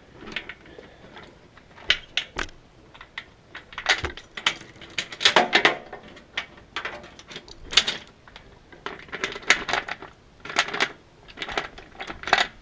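Short steel chain with a hook on each end clinking and rattling as it is handled, in irregular bursts of metal-on-metal clinks.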